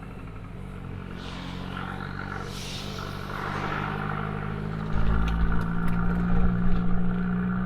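Abarth 595C's 1.4-litre turbo four-cylinder running through an Akrapovic exhaust, holding a steady low pitch. A rushing noise swells and fades in the first few seconds. About five seconds in, a deep low boom comes in and the exhaust gets louder.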